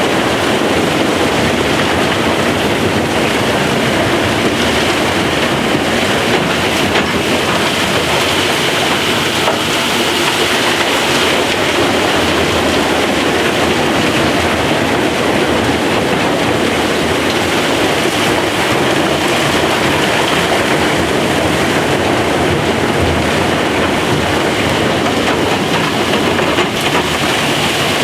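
Loud, steady noise of opal-mining machinery running underground: the blower and the digging machine working at the face.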